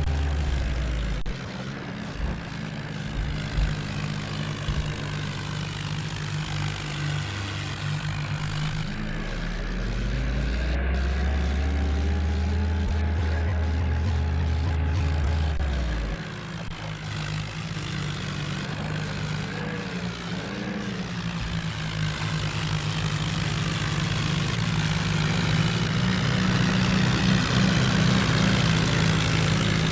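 Mahindra tractor's diesel engine running, its pitch rising and falling as the revs change. A deep low drone cuts out about halfway through.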